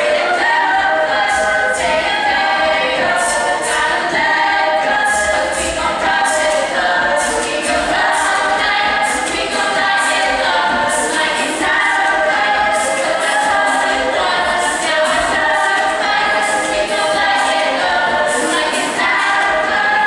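An a cappella group singing in close harmony, with several voices holding chords, over a steady beat of about two crisp vocal-percussion hits a second.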